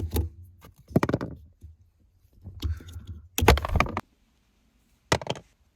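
A handful of irregular knocks and clatters with dull thuds beneath them, about five in all, spaced a second or so apart.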